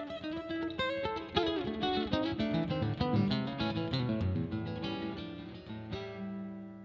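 Acoustic guitar music, quick plucked notes ending on a held chord that rings and fades near the end.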